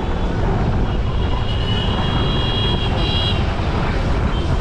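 Steady road and wind rumble of a ride through traffic. A thin high tone, such as a distant horn, sounds from about a second and a half in for nearly two seconds, and briefly again near the end.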